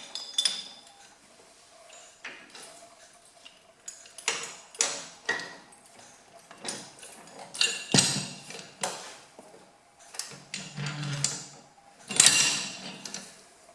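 Heavy steel three-point hitch parts being handled and fitted to a small tractor: a series of irregular knocks, clanks and scrapes of metal on metal, with a longer scrape near the end.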